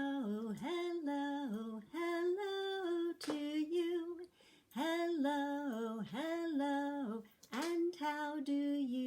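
A woman singing a simple tune unaccompanied. She holds her notes in short phrases with brief pauses between them.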